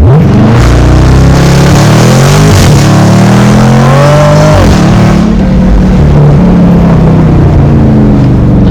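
Car engine launched at full throttle, accelerating hard: its note climbs and drops back at gear changes, then falls away as the car eases off near the end.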